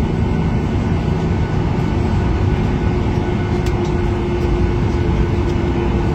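Steady airliner cabin noise from inside the cabin: an even engine and air rumble with a faint steady hum, as the plane rolls on the ground after landing.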